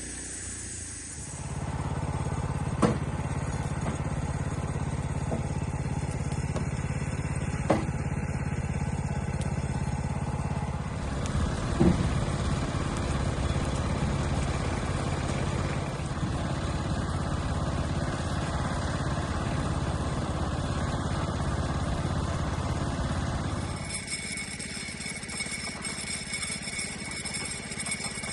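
An engine running steadily, with a few sharp knocks over it. It cuts off about 24 seconds in, leaving fainter steady high tones.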